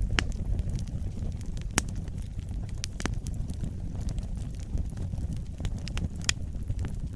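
Wood fire burning: a low, steady rumble of flames with frequent sharp crackles and pops. The loudest pops come about two seconds in and again near the end.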